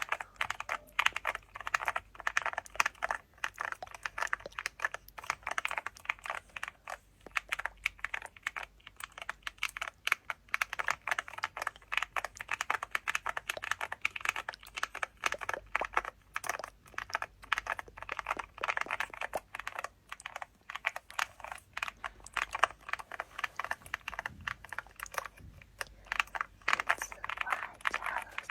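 Fast, continuous typing on a computer keyboard: a dense stream of key clicks with brief slower spells.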